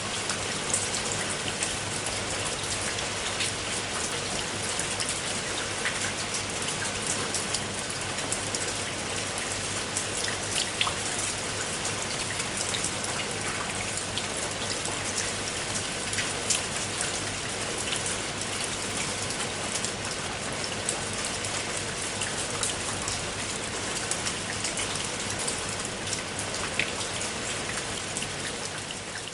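Steady rain falling, with individual raindrops pattering sharply on a surface over a dense even hiss; it swells up from silence right at the start.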